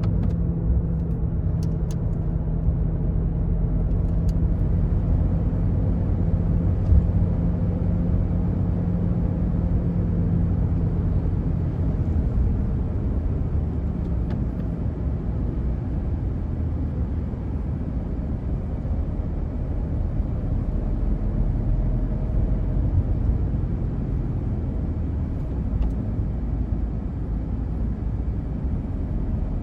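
Cabin sound of a 2005 Toyota Yaris's 1.4 D-4D four-cylinder turbodiesel under way, with steady engine and road rumble. The engine's hum is clear for roughly the first third, then mostly sinks into tyre and road noise.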